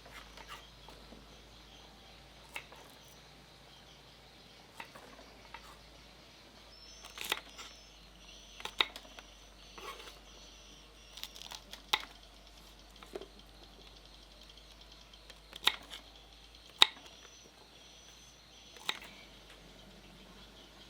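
A dozen or so sharp knocks and clicks at irregular intervals over a faint steady background, the loudest a few seconds before the end.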